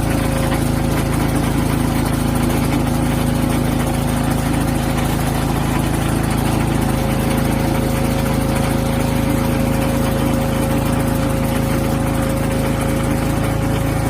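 Engine running steadily at a constant speed, with a steady whine above its hum, powering a free-wheel firewood splitter; no splitting strokes stand out.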